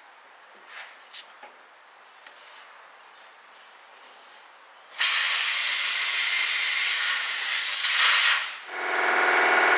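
Air blown through a car's fuel line toward the tank, a sudden loud steady hiss starting about five seconds in and lasting about three and a half seconds, a test for a blockage in the line. Just before the end it gives way to a steady buzzing hum.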